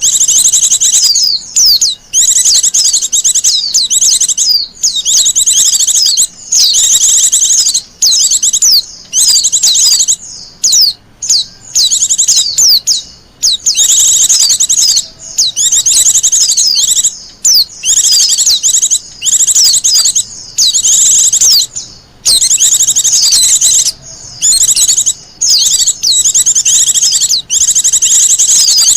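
Wild white-eye (pleci) singing: long, fast runs of high twittering notes, phrase after phrase with only brief pauses between them.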